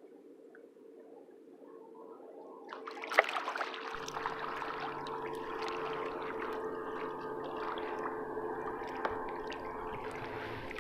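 Water gurgling and splashing against a kayak hull, rising about three seconds in with a sharp knock, then a steady rushing.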